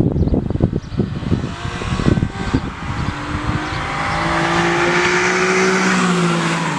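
Infiniti G37 IPL's 3.7-litre V6 revving through a Motordyne aftermarket exhaust: a run of uneven blips and pulses for the first couple of seconds, then the revs climb and hold in one long drone that eases slightly near the end.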